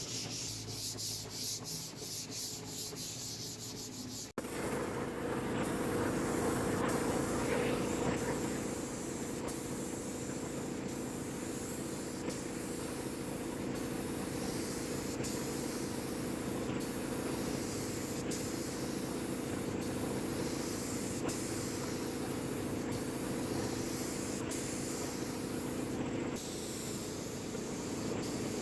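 Wood surface being sanded: quick repeated rubbing strokes for the first few seconds. After an abrupt change about four seconds in, a power sander runs steadily with a constant motor hum under the grinding of abrasive on wood.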